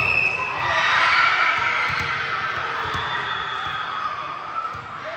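Spectators and players cheering and shouting together, swelling about a second in and slowly dying away.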